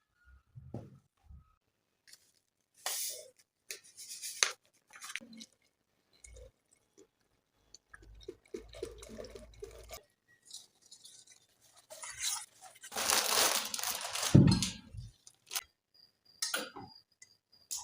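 Intermittent rustling and light knocks of things being handled by hand, with a longer, louder stretch of rustling about twelve to fifteen seconds in.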